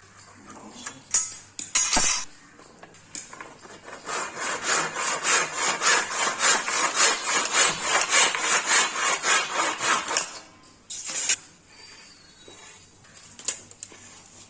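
A hand tool worked back and forth across wood in quick rhythmic strokes, about three a second, for several seconds. There are a couple of sharp knocks before and after the strokes.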